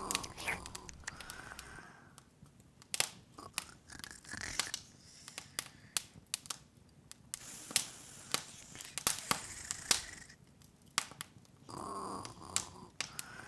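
Open wood fire crackling, with irregular sharp snaps and pops scattered over a faint hiss.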